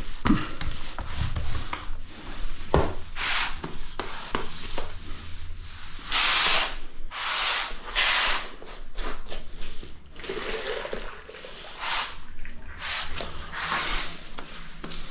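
Damp sponge scrubbing back and forth over freshly grouted tiles to wipe off the excess grout: a series of about a dozen irregular hissing scrub strokes.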